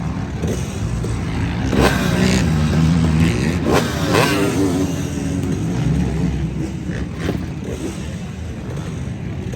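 Motorcycle engines running, with revving that rises and falls and grows louder about two to four seconds in, then settles back to a steady rumble.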